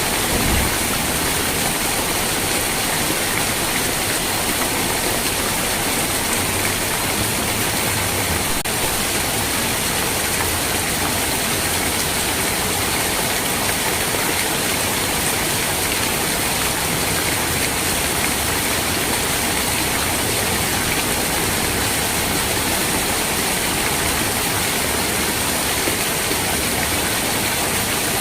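Steady rain falling, an even hiss with no breaks or changes in strength.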